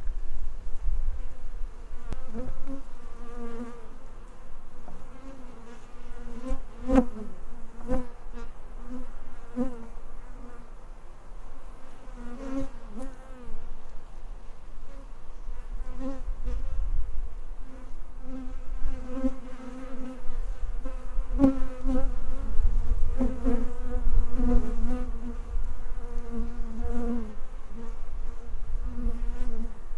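Honeybees buzzing at a hive, many wings together making a wavering hum that swells and fades, with a low rumble that comes and goes and a couple of sharp clicks.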